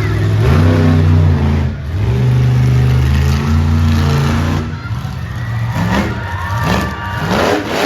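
Monster truck engine running hard under heavy throttle. It holds high revs for the first few seconds, then revs up in several quick rising bursts near the end.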